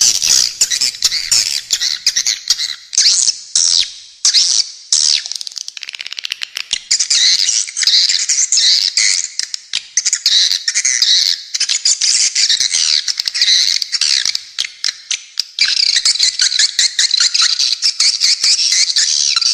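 Recorded bird calls from a masteran track of spiderhunter and swiftlet calls: dense, rapid, harsh high chattering, briefly broken up a few seconds in.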